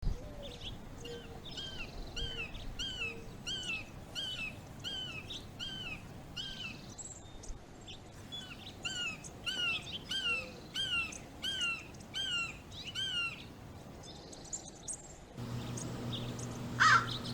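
A wild bird calling in a steady series of short, clear, arching calls, about two a second, in two long bouts with a pause between. A steady low hum comes in near the end.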